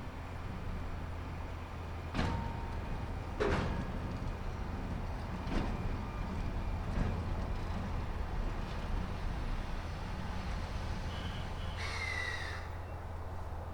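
Railway train with a steady low hum and several sharp metallic clanks in the first half, then a short hiss of air with a falling squeal about twelve seconds in.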